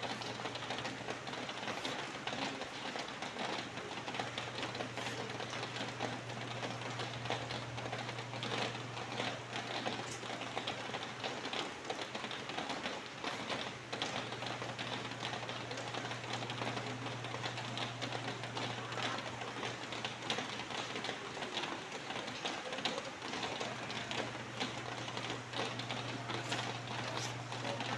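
Steady rain, a dense patter of many small drops ticking rapidly. A low steady hum runs underneath and drops out briefly three times.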